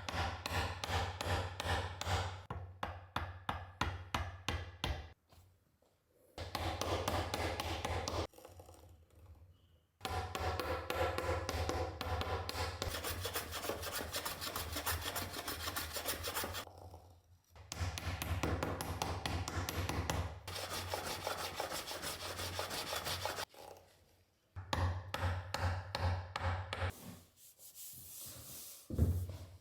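Rapid back-and-forth rubbing strokes of an abrasive hand tool on wood, smoothing down a wooden inlay repair. The strokes come in several bouts of a few seconds each, with short pauses between them.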